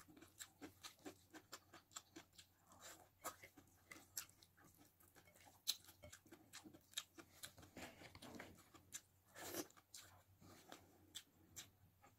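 Faint, close-up eating sounds of a mouthful of rice, sardines and raw onion: soft wet chewing with scattered mouth clicks and small crunches, a little louder about nine and a half seconds in.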